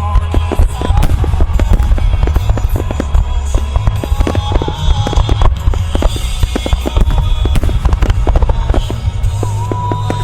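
Dense barrage of aerial firework bursts, many sharp reports and crackles a second over a heavy low rumble, with music playing along with the display.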